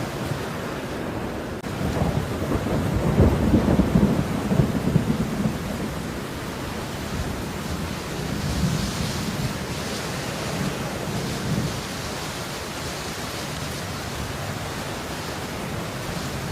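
Steady rain falling, a continuous hiss, with a low rumble under it that swells about two seconds in and fades by about six seconds.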